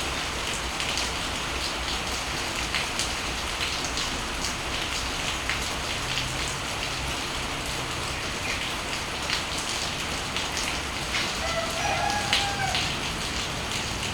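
Steady rain with scattered sharp drip taps throughout. About eleven seconds in, a brief bird call sounds over the rain for about a second.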